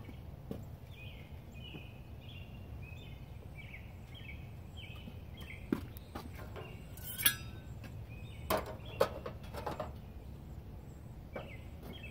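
A bird chirping over and over, each call a short note sliding downward, over a low steady rumble. Midway come a few sharp knocks and a clatter, the loudest sounds here, as a squeeze bottle and a griddle scraper are handled.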